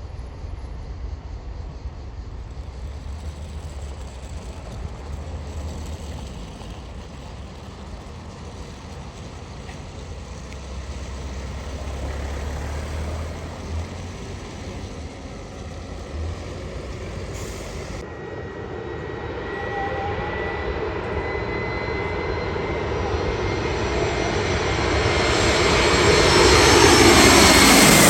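An airliner's engines grow steadily louder as it approaches, with a high whine rising over the rumble. It passes close overhead at the end, and the pitch drops as it goes by.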